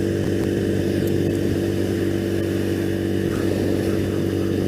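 2001 Triumph Bonneville's 790 cc parallel-twin engine running at a steady cruise, its note holding an even pitch with no revving.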